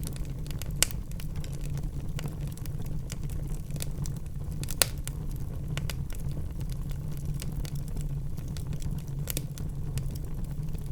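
Wood fire burning in a fireplace: a steady low rumble with scattered crackles and two louder pops, one about a second in and one near the middle.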